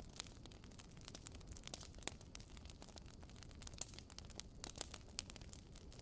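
Wood fire crackling in a fireplace: irregular sharp snaps and pops from the burning logs, a few louder than the rest, over a low, steady rush.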